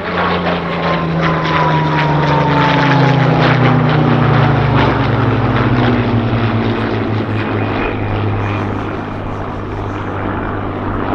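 Rolls-Royce Merlin piston engine of a WW2 fighter flying past, getting louder and then fading, its pitch dropping steadily as it goes by.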